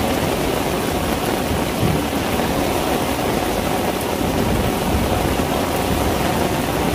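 Heavy rain pouring down: a steady, even rush that does not let up.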